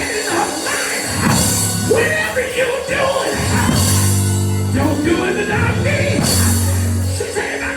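Live church band music under a preached sermon: held low bass and organ notes, with a pitched line above them that bends and breaks like singing or shouted vocal phrases.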